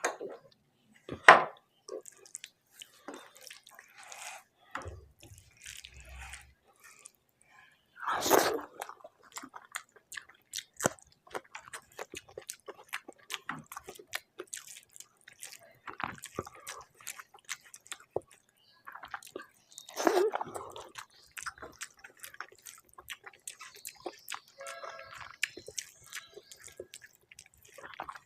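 Close-miked eating of rice with lau chingri, a bottle gourd and prawn curry: wet chewing and mouth clicks throughout. Louder smacks come about a second in, around eight seconds and around twenty seconds.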